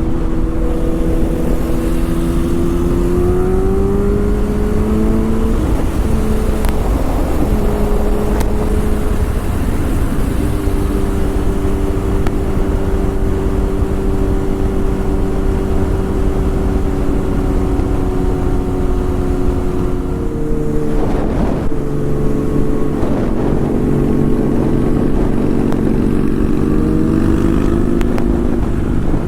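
A vehicle's engine running under way: its pitch climbs about 3 s in and holds steady, drops briefly around 21 s, then climbs again. Heavy wind rumble on the microphone runs underneath.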